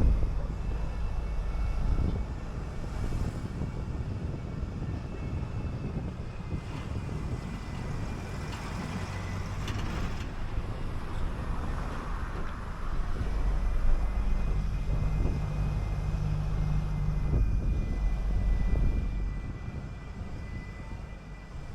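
City bus engine running with a low road rumble. The engine hum is strongest for a few seconds about two-thirds of the way through, then eases off near the end.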